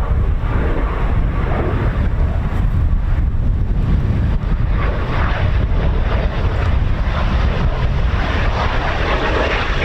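Strong wind buffeting the microphone, a loud, steady low rumble. Near the end a jet's engine noise starts to build beneath it.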